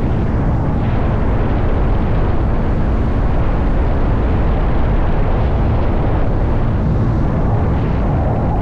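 Motorcycle engine running at a steady cruising speed, heavily overlaid by wind rumble on the microphone.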